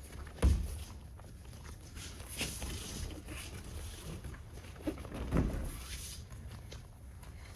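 Feet shuffling and sliding on tatami mats, with two heavy thuds, about half a second in and again past five seconds, of bodies landing in breakfalls as partners are thrown in an aikido demonstration.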